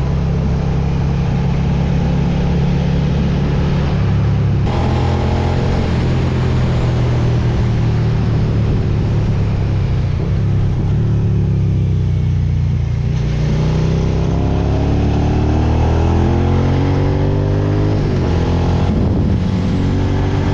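Suzuki SV650X's 645 cc V-twin engine running steadily under way. Around the middle its pitch falls as the bike slows, then climbs back as it accelerates again.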